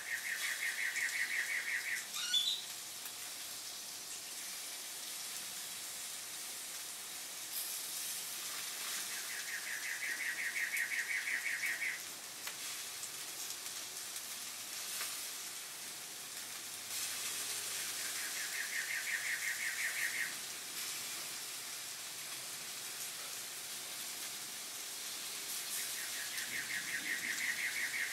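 A bird's rapid trill, about two to three seconds long, repeating four times at intervals of roughly eight seconds, over the steady sizzle of chicken cooking on a gas grill.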